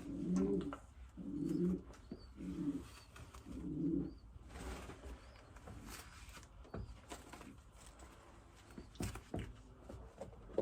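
Racing pigeons cooing in the loft, four low coos in the first four seconds, with faint high chirps repeating throughout. Soft rustling and clicks of handling follow in the second half.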